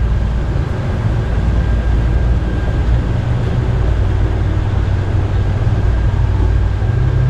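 Electric canal boat under way: a steady low rumble of motor and water, with a faint steady high whine.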